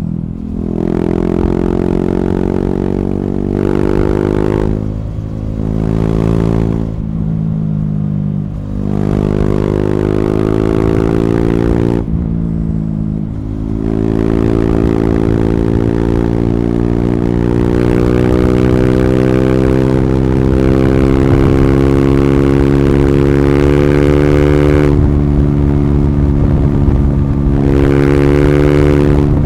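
KTM Duke 390's single-cylinder engine through an Akrapovic slip-on exhaust with the catalytic converter removed, accelerating under load: the pitch climbs and drops briefly at several gearchanges in the first half, then rises slowly and holds as a steady drone, with two more shifts near the end.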